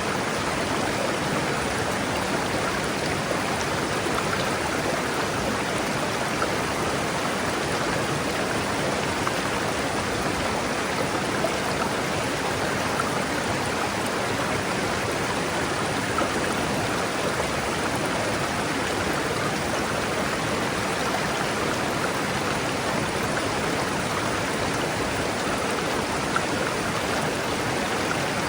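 River flowing steadily: an even, unbroken rush of moving water.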